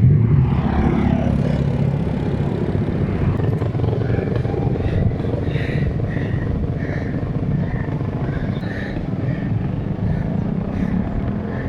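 A motor vehicle engine runs close by throughout, with a falling pitch in the first second or so as it passes.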